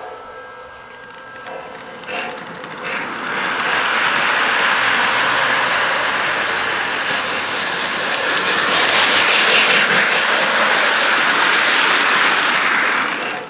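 Lionel 0-8-0 model steam locomotive train set running on its track: a steady, noisy running sound that grows louder about three seconds in and cuts off just at the end.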